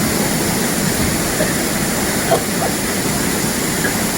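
Waterfall pouring into its pool: a steady, even rush of falling water, with a couple of faint brief sounds about two seconds in.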